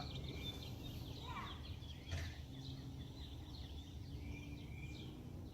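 Faint outdoor background of birds chirping, over a low steady hum, with a single short knock about two seconds in.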